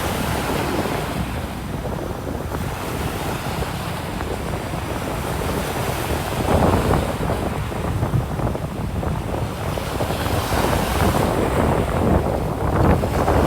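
Ocean surf washing onto a sand beach, with louder surges as waves break about halfway through and again near the end, and wind rumbling on the microphone.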